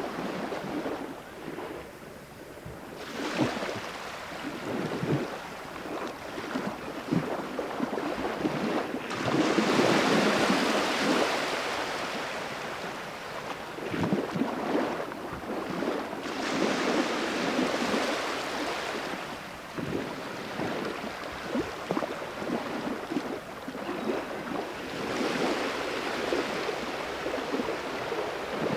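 Sea waves washing onto the shore, each surge swelling and fading every six or seven seconds.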